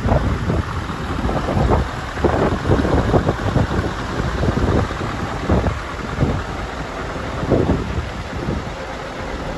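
Wind gusting and buffeting the microphone in irregular low rumbles, over the steady running of a Scania R730 truck's V8 diesel engine at idle.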